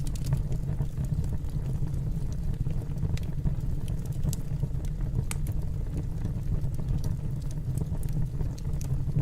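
Fire burning in a fireplace: scattered small crackles and pops over a steady low rumble.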